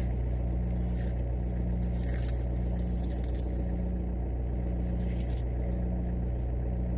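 Car engine running, heard from inside the cabin: a steady low hum.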